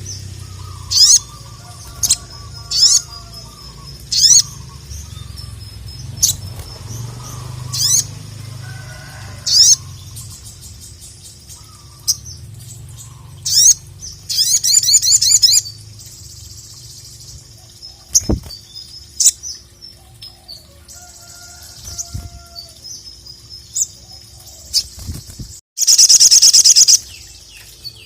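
Crimson sunbird (sogok ontong) singing a series of short, high, sharp chirps every second or two, with a rapid trilled burst about halfway through and a louder fast trill near the end.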